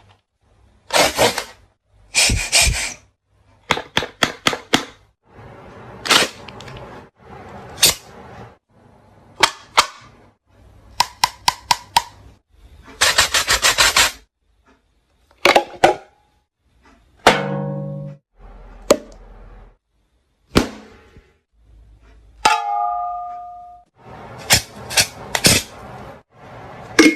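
A string of sharp taps, clacks and clangs in quick clusters separated by short pauses, some ringing briefly with a pitched tone.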